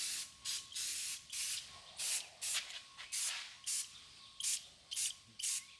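Aerosol spray paint can hissing in short bursts, about ten quick passes in a row, as parts are spray-painted gloss black.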